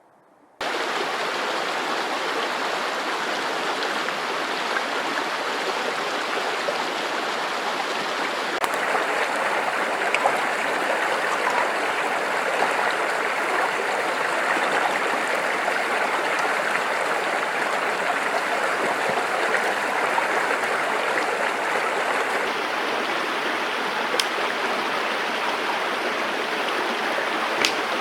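Mountain stream rushing over rocks, a loud steady roar of water that starts abruptly about half a second in.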